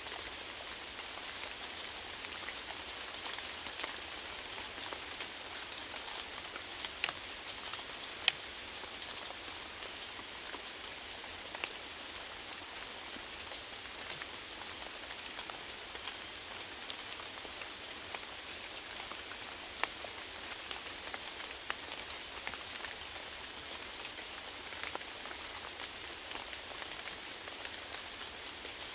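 Steady rainfall with a continuous hiss and scattered individual drops ticking sharply on a surface.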